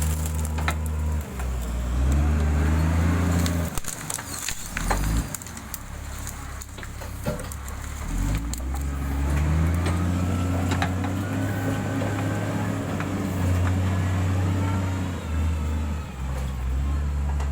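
Diesel engine of heavy road-repair equipment running under changing load, its note stepping up and down, easing off for a few seconds in the middle before picking up again, with scattered knocks and clanks.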